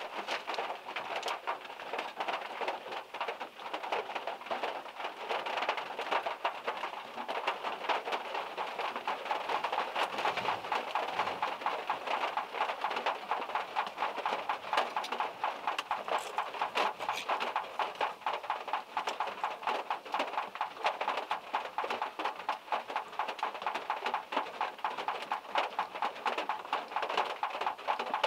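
Rain pattering on a car's roof and body, a steady dense patter of many separate drops ticking through it.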